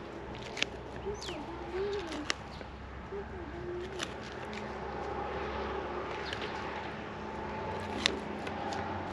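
Low wavering bird calls in the first few seconds, with a few sharp clicks scattered through. A steady engine-like hum grows louder near the end.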